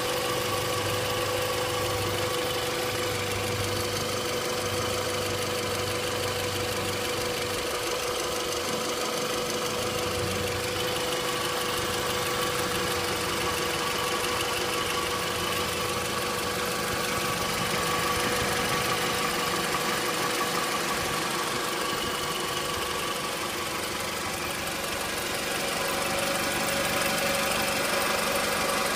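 Toyota Camry 40's 2AZ 2.4-litre four-cylinder engine running steadily, with a constant whining tone over it. This is an extraneous noise whose origin the owner cannot place.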